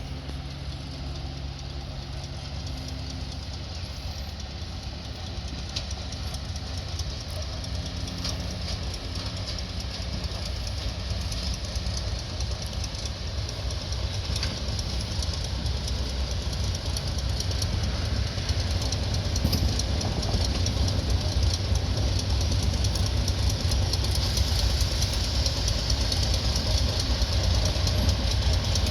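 Arcade & Attica Railroad train approaching a station, its locomotive engine running and the train rumbling, growing steadily louder as it draws near.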